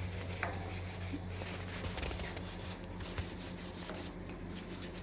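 Rubbing and scraping noises over a steady low hum.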